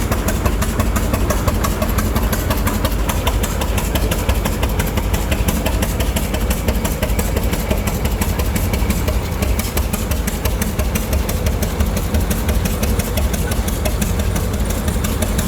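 An engine running steadily with a fast, even beat of strokes over a deep rumble.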